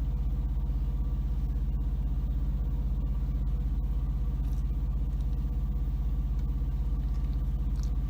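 Semi-truck diesel engine idling steadily, heard from inside the parked truck's cab.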